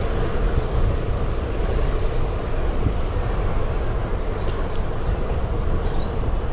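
Wind rushing over the action camera's microphone while a road bike rolls along at speed, a steady rush with a deep rumble from the tyres on tarmac.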